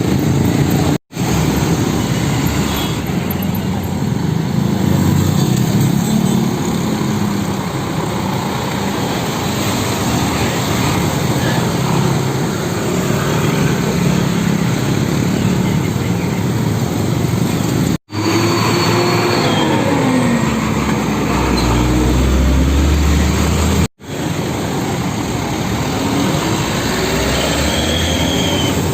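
Steady road traffic noise with heavy truck engines, cut off abruptly three times by edits. Just past the twenty-second mark a heavy vehicle adds a deep rumble.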